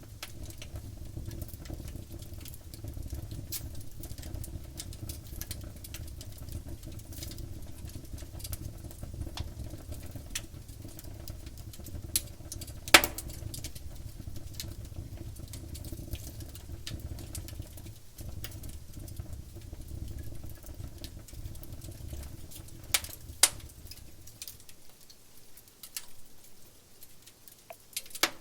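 Wood fire crackling with a steady scatter of small snaps and a few sharp, louder pops, over a low rumble that drops away about three-quarters of the way through.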